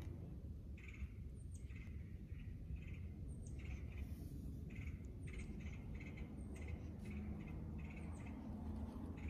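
Birds chirping: many short calls, some with brief high falling notes, repeating every second or so over a steady low rumble.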